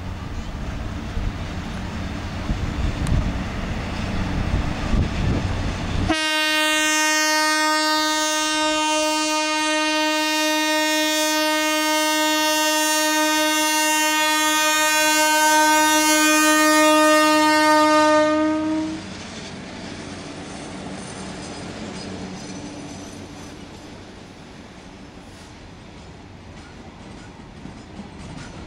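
A WAG7 electric locomotive approaches with a rumble, then sounds its horn in one long steady blast of about thirteen seconds that grows louder until it cuts off as the locomotive passes. Its wagons then roll past with a fading rumble and the clicks of wheels over rail joints near the end.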